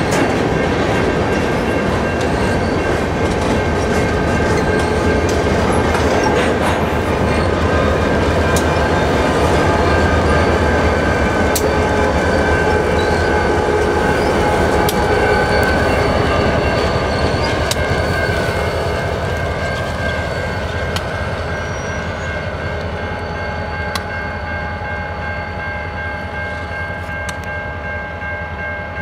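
Rock train of hopper cars rolling slowly in reverse behind two EMD SD40-2 diesel locomotives, their 16-cylinder two-stroke engines running: a steady rumble and rolling clatter with steady high-pitched wheel squeal. It grows louder as the locomotives pass and fades after about 18 seconds as they move away.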